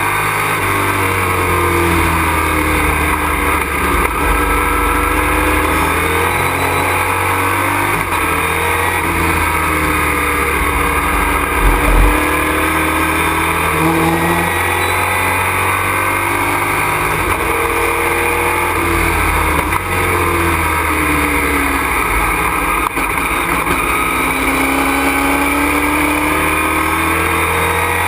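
Race truck engine heard from inside the cockpit at racing speed, its revs rising and falling again and again through the lap. There is a brief louder thump about twelve seconds in.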